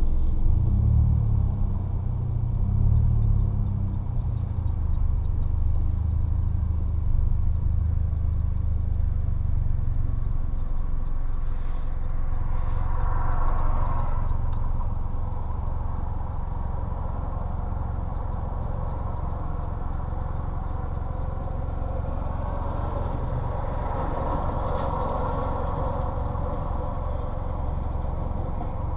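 2005 Chevrolet Cobalt's engine and custom exhaust, heard from inside the cabin: a deep drone that shifts as the car creeps forward for the first ten seconds or so, then settles to a steady idle while the car stands. Passing cars add a rising and falling rush of tyre and engine noise twice, about twelve seconds in and again past twenty seconds.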